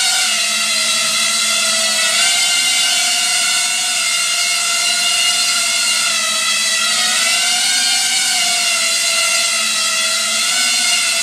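Small FPV quadcopter (a 3-inch toothpick build in pusher layout, 1303 5000KV brushless motors with three-blade props) hovering close by: a steady high-pitched motor-and-propeller whine whose pitch wavers gently up and down as the throttle shifts.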